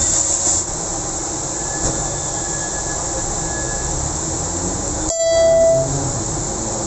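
Steady hiss of heavy rain and wet traffic on a road, with a short horn blast about five seconds in.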